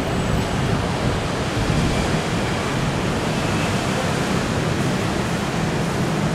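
BTS Skytrain electric train running, a steady rumble with no breaks or separate knocks.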